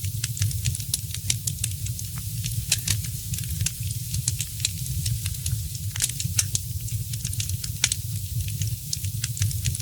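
Fireplace fire crackling, with frequent sharp irregular pops over a steady low rumble of burning flames.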